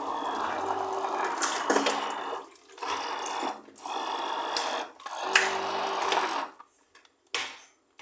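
Electric blender blending banana with ice, run in several bursts of one to two seconds with short stops between.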